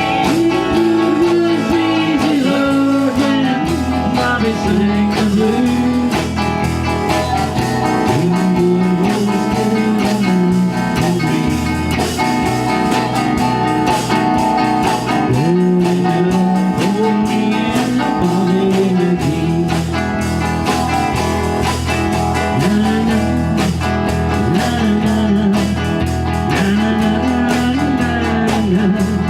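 A band playing an instrumental blues passage: lead guitar bending and sliding notes over a low bass line that changes every few seconds.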